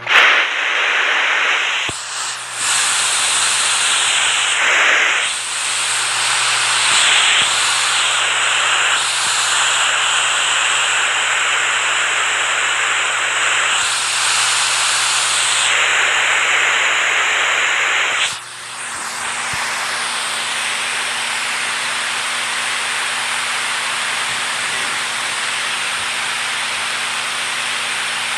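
Rushing water, a dense steady hiss. At about 18 seconds it cuts to a different, slightly quieter and more even stretch of water noise.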